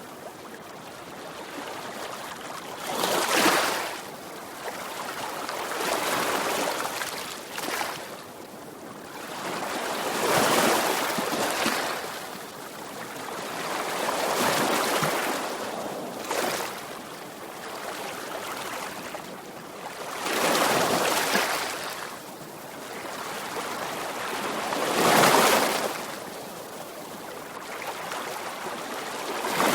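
Sea waves breaking on a shore: a wash of surf that swells and recedes every four seconds or so, with the biggest break about 25 seconds in.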